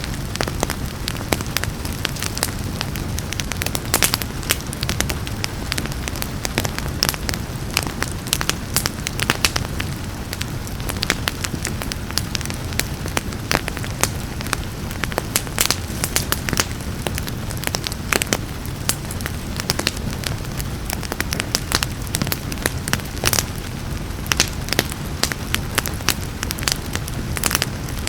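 Wood fire crackling and popping, with many irregular sharp snaps over a steady low rumble, mixed with a steady hiss of rain.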